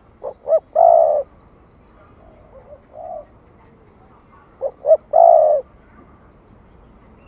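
Spotted dove cooing: two phrases, each of two short notes followed by one longer note, about four and a half seconds apart, with a fainter, shorter coo between them.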